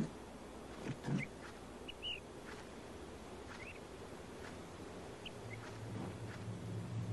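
A few faint, short, high bird chirps rising in pitch, scattered over a quiet outdoor background, after two low thumps about a second in.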